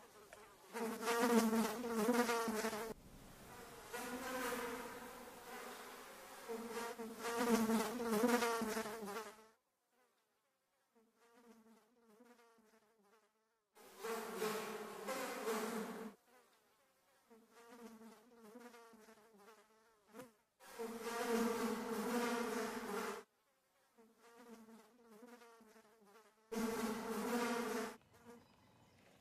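A buzzing drone at one steady pitch with wavering overtones, sounding in phrases of two to three seconds separated by short silent gaps.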